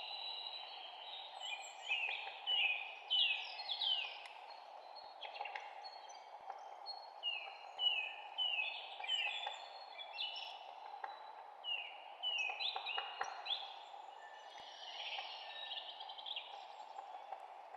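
Several songbirds chirping, their short downward-sweeping calls overlapping and coming in clusters, over a steady background hiss.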